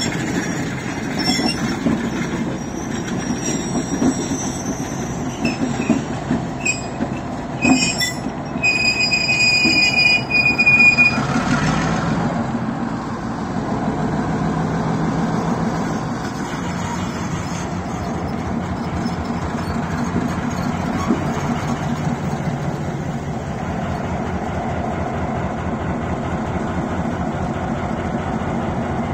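Train cars rolling slowly past with their wheels squealing high on the rails for the first eleven seconds or so, loudest just before the squeal stops. After that a steady low rumble from the diesel switcher locomotive's engine as it passes at low speed.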